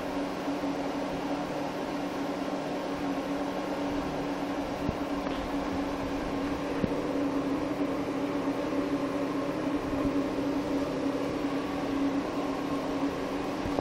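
Steady mechanical hum from a small motor, with a low droning tone and faint hiss; a few faint ticks.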